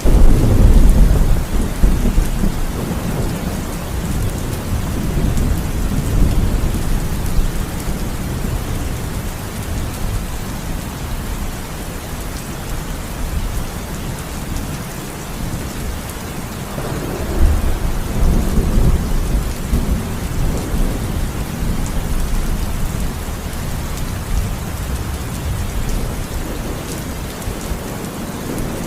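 Heavy rain falling steadily in a thunderstorm, with deep rolling thunder: a loud rumble right at the start and another about seventeen seconds in.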